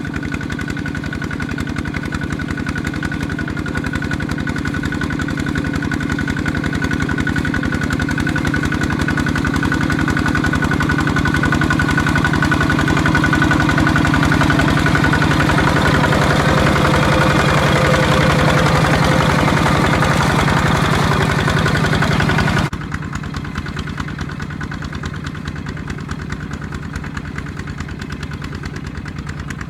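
Tractor engine running steadily, growing louder toward the middle, then dropping suddenly to a quieter, duller level about 23 seconds in.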